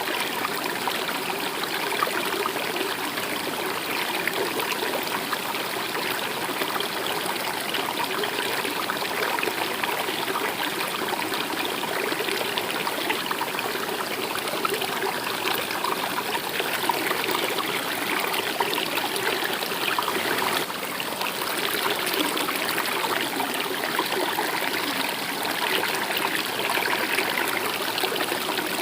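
Stream water running steadily over stones, an even trickling and splashing flow, with a brief small dip in level about two-thirds through.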